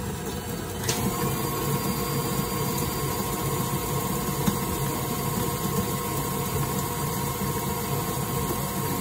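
Electric kitchen mixer running steadily, beating eggs and sugar for cake batter; a thin steady whine joins about a second in and holds until the motor stops at the end.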